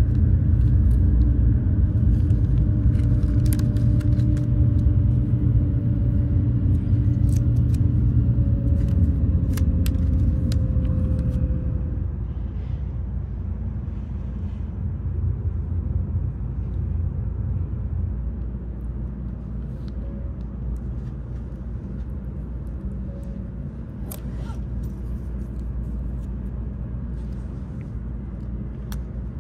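Steady low rumble of a Shinkansen bullet train running, heard inside the passenger cabin, with a faint steady tone in it; the rumble eases off a little about twelve seconds in and the tone fades. Scattered light clicks and crinkles of the bento's plastic packaging being handled sit on top.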